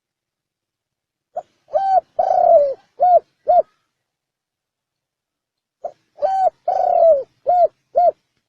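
Spotted dove cooing in the 'chuông đồng' (bronze-bell) voice: two identical phrases, each a short lead note, a longer note, a long note that sinks at its end, then two short clipped notes.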